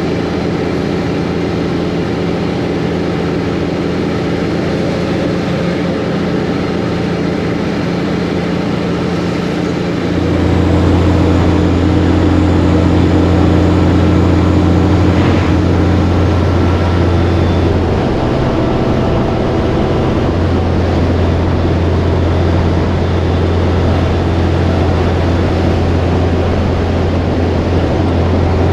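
Heavy diesel truck engine running steadily. About ten seconds in, a deeper, louder drone comes in and holds.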